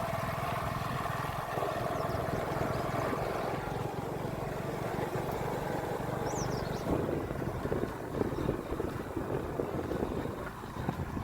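A motor engine running steadily with a low rumble and a steady whine. In the second half, irregular knocks and rattles join it.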